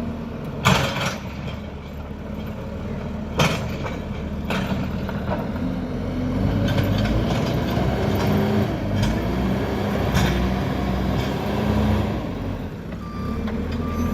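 JCB backhoe loader's diesel engine running steadily, with sharp metal clanks, the loudest about a second in and again a few seconds later. A reversing alarm starts beeping near the end.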